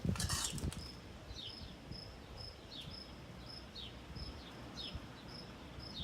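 Faint, high, regular chirping from a small animal, short chirps about twice a second with a falling chirp about once a second between them. A brief clatter sounds at the very start.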